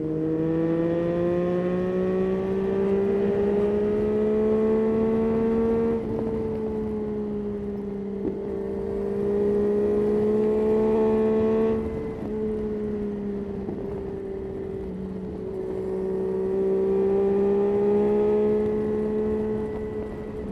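Yamaha Tracer 9's three-cylinder engine running under way, its pitch climbing slowly as it pulls. The throttle eases off about six and twelve seconds in, then the engine pulls again.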